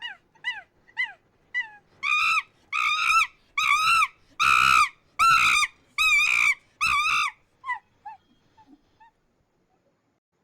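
A monkey hooting: a run of short falling hoots, about two a second, builds about two seconds in into seven loud, longer calls, then fades to a few faint hoots.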